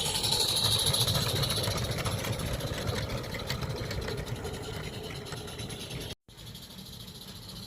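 A 16mm-scale live-steam garden railway locomotive running with a rapid, even beat, growing fainter over about six seconds. The sound cuts off abruptly about six seconds in, and a quieter steady hiss follows.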